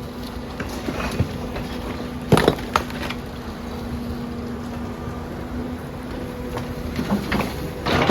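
Building demolition: sharp cracks and crashes of material breaking up, over a steady machine hum. The loudest crash comes about two and a half seconds in, and a run of cracks builds near the end.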